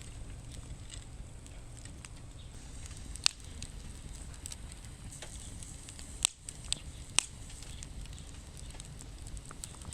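Wood fire burning in a fire pit stand, crackling with four sharp pops over a steady low rumble.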